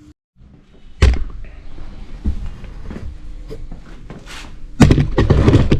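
Tools and motorcycle parts being handled: a sharp metallic knock about a second in, then scattered clicks and clatter, with a louder spell of rattling near the end.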